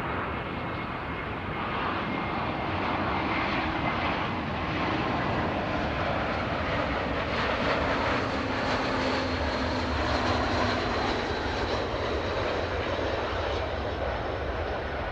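Jet aircraft engines rushing as a plane passes the airfield, swelling gradually to a peak about two-thirds of the way through, then easing off a little.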